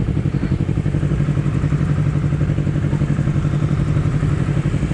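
Honda CBR250RR motorcycle engine running steadily at low engine speed, unrevved, with a rapid even pulsing exhaust note.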